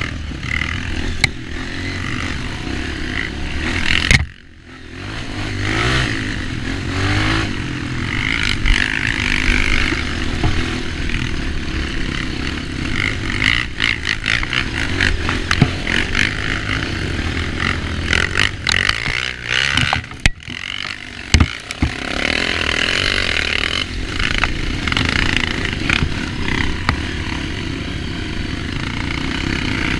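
Dirt bike engine running on a trail ride, with rattling and scraping from the bike over rough ground. The sound drops away sharply for a moment about four seconds in, then builds back up.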